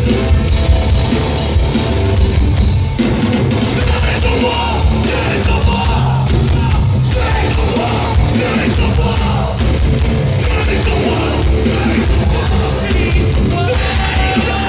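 A hardcore band playing live, loud and distorted, with drums, heavy guitars and yelled vocals over the top.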